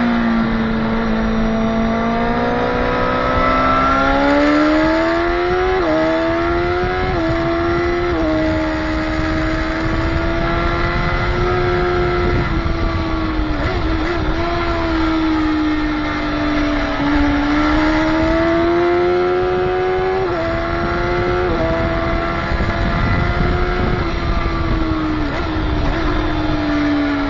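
Motorcycle engine heard on board at track speed, over wind rush. Its pitch climbs through the first few seconds, then holds high with several sudden small steps at gear changes and a short dip near the middle.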